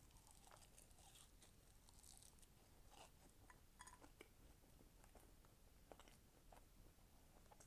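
Faint close-miked chewing of McDonald's fast food, with scattered soft mouth clicks.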